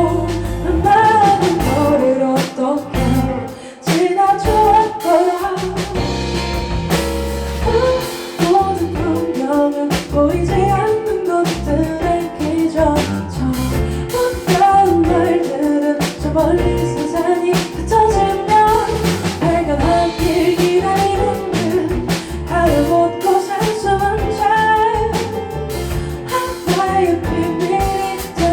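A woman singing a slow pop ballad live, backed by a band with drum kit and guitar.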